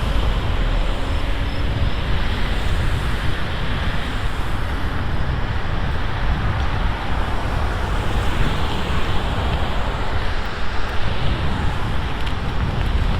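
Wind rushing over the camera's microphone on a moving bicycle, a steady rumbling noise that flutters in strength, with road traffic noise beneath it.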